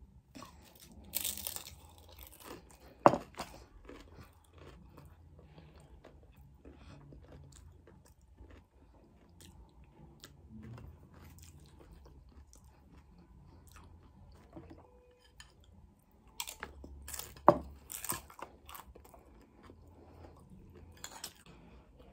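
A person chewing a mouthful of cowboy caviar salad close to the microphone, with crunching, wet mouth sounds and a few sharp louder clicks.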